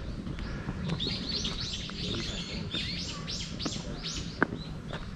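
Small birds chirping in quick runs of short, high calls, over a low outdoor rumble, with one sharp click about four seconds in.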